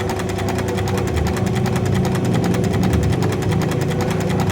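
Mercedes-Benz OM615 diesel injection pump setup running during a pump test: a steady, rapid mechanical clatter over a constant hum.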